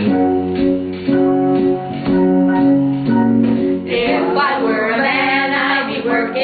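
A song's accompaniment playing held chords that change about once a second; about four seconds in, a group of men and women start singing together over it, unpolished at a first read-through.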